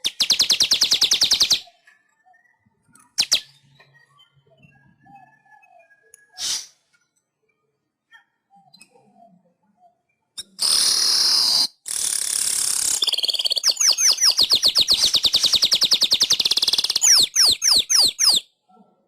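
Manyar (weaver bird) singing: a short rapid buzzy trill, two brief calls, then from about ten seconds in a long loud wheezing, rattling song that ends in a run of quick downward-sweeping notes.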